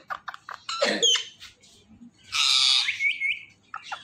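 Indian ringneck parrot calling: a few short clicks and a falling call, then a loud harsh screech about two seconds in, followed by quick rising whistled notes.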